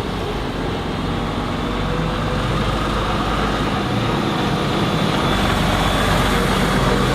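Heavy truck engine running as the truck drives slowly by, growing a little louder toward the end.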